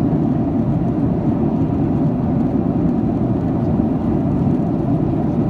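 Steady cabin noise inside a Boeing 737-800 in flight: the hum of its CFM56-7B engines and the rush of air past the fuselage, heard from a seat by the wing, even and unchanging.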